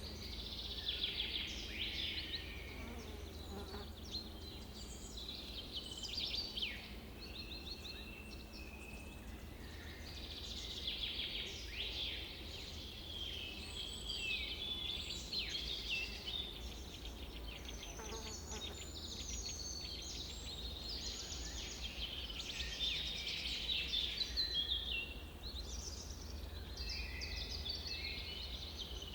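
Busy outdoor chorus of songbirds: many overlapping chirps, rapid trills and falling whistles, over a steady low rumble.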